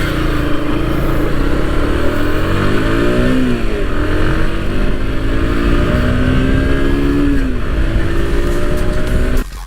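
Single-cylinder motorcycle engine pulling hard at highway speed with heavy wind rush on the microphone. The engine note climbs, drops at a gear shift about three and a half seconds in, climbs again, and drops once more near eight seconds. The sound cuts off abruptly just before the end.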